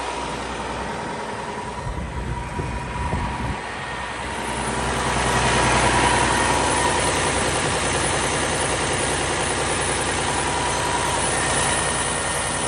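Cummins ISM diesel engine of a Kenworth W900 mixer truck idling steadily, growing louder about four seconds in and staying at that level.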